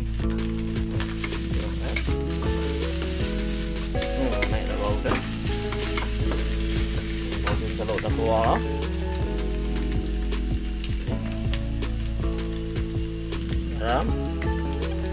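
Egg, onion and cencalok (fermented shrimp) sizzling in hot oil in a nonstick wok while a wooden spatula stirs and scrapes them, with frequent sharp clicks of the spatula against the pan. Steady low tones that shift in steps run beneath.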